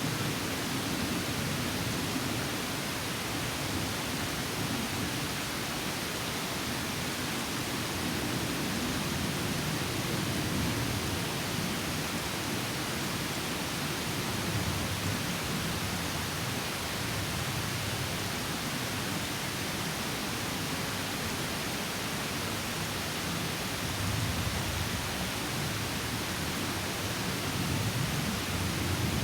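Small stream spilling over a mini waterfall: steady rushing water with a low churning that swells and eases gently.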